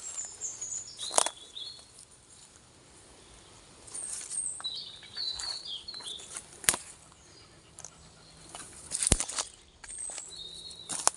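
Small birds chirping in short high phrases, in three or four bursts, over footsteps on the forest floor with a few sharp cracks like twigs snapping underfoot.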